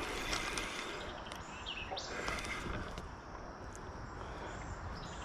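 Steady outdoor background noise with a brief high chirp, like a bird call, about two seconds in.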